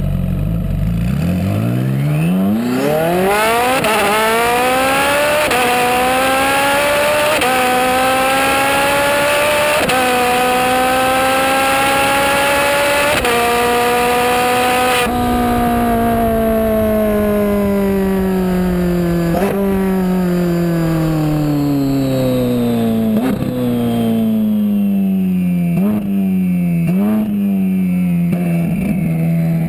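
Ferrari 458 Spider's twin-turbocharged V8 at full throttle, the engine note climbing hard and dropping back at each of about five quick upshifts. About halfway through the throttle is lifted and the note falls steadily as the car slows, with several short cracks near the end, settling to a low steady note.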